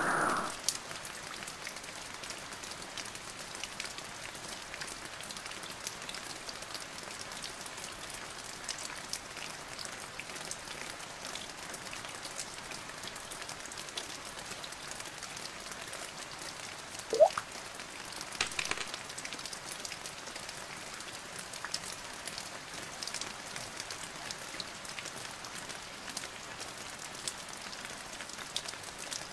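Steady rain falling: an even hiss with fine ticks of single drops, and a short rising chirp a little past halfway.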